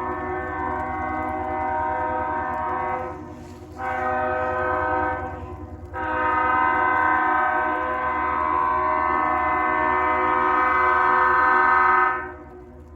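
Locomotive air horn sounding a long blast, a short blast, then a long blast of about six seconds over the low rumble of the passing train. This is the pattern of a grade-crossing signal. The horn stops sharply about twelve seconds in.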